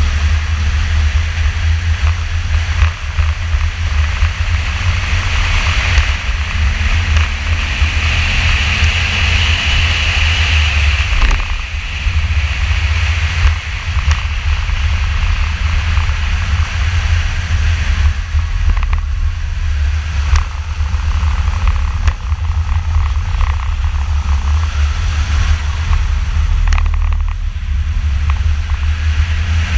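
2002 Camaro Z28's LS1 V8 running at part throttle around 2,500 to 3,800 rpm during a track lap, largely buried under a steady, heavy low rumble of wind and road noise on the microphone.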